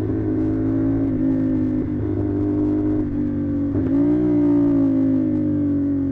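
CFMoto 450SR parallel-twin engine running through an SC-Project exhaust at a steady cruising pitch. About two-thirds through the revs dip briefly, then jump up and get louder, and then ease down slowly.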